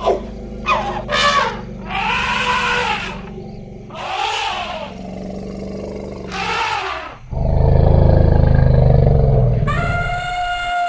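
Elephants trumpeting: a series of short pitched calls that rise and fall, then a loud, deep rumbling call about seven seconds in, with a high trumpet starting near the end.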